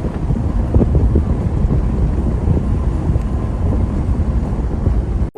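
A steady, loud low rumble with wind buffeting the microphone, cutting off suddenly at the end.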